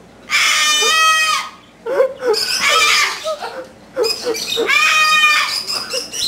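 A white pet parrot screaming: three long, harsh screeches, each a second or two long, with short breaks between them.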